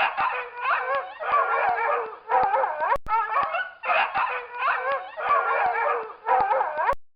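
A dog barking in a run of short calls with wavering pitch, about one a second, which cut off abruptly just before the end.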